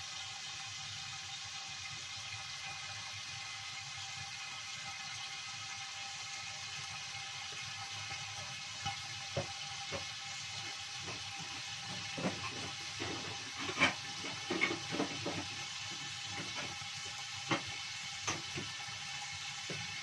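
Stingray frying in a covered wok: a steady sizzling hiss, with scattered pops and spits of hot oil starting about eight seconds in and thickest around the middle.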